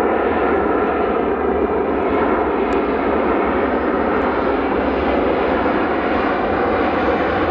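Jet airliner's engines, loud and steady, with faint steady whining tones over the noise.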